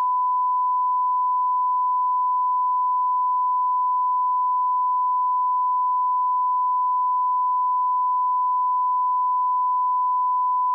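Audio line-up reference tone at −18 dB: one steady, unchanging pure beep at a single pitch, held at constant level.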